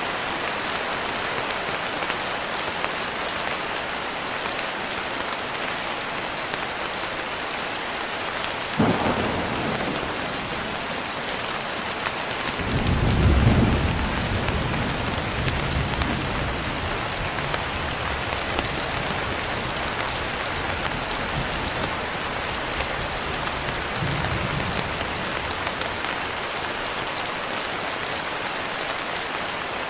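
Steady heavy rain falling, with thunder: a sharp crack about nine seconds in, then a loud low rumble swelling a few seconds later and rolling on for several seconds, and a fainter rumble near the end.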